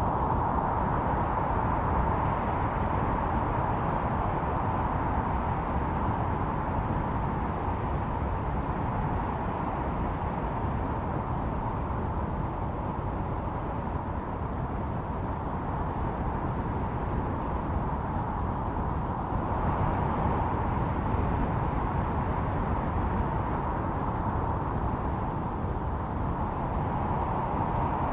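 Snowstorm wind blowing steadily: a howling band of noise over a deep rumble, swelling a little about twenty seconds in.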